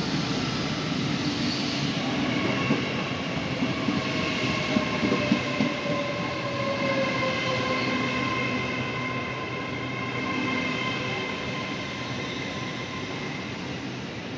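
Train running past on the rails: a steady whine of several high tones, with one lower tone slowly falling in pitch. Wheels click over rail joints a few seconds in.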